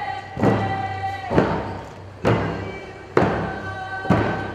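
A drum struck in a steady slow beat, about one stroke a second, with voices holding sung notes between the strokes: a traditional Tlingit drum song.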